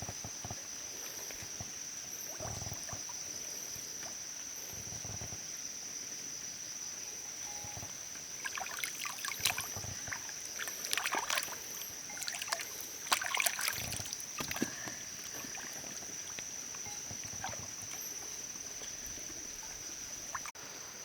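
Shallow water trickling and sloshing, with a flurry of splashes and sharp clicks in the middle. A steady high-pitched whine runs underneath.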